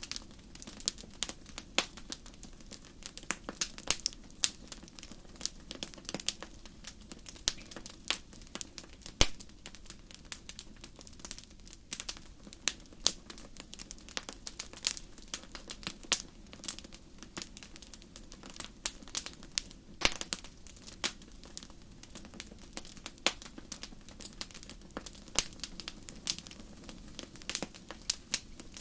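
Wood fire burning in a fireplace, crackling and popping irregularly with many sharp snaps, several of them loud, over a low steady rumble of the flames.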